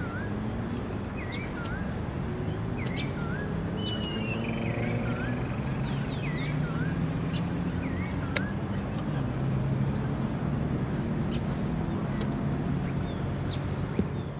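A bird repeats a short hooked call about once a second over a low engine hum that slowly rises and falls in pitch. About eight seconds in, a single sharp click of a golf club striking the ball on a chip shot.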